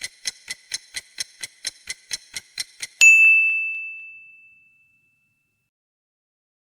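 Quiz countdown timer sound effect: a clock ticking about four times a second, then, about three seconds in, a single bright bell ding that rings out and fades over a second or so, marking time up.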